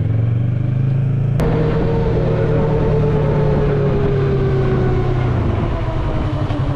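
Yamaha MT-03 motorcycle engine running under way, with a sharp click about a second and a half in. The engine note then falls slowly as the bike slows, and near the end settles into a lower, pulsing rumble.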